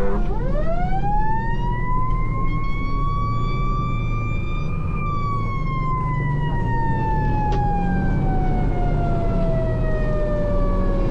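Fire engine siren responding to a call: one long wail that climbs for about five seconds, then slowly winds back down, over the low rumble of the moving engine.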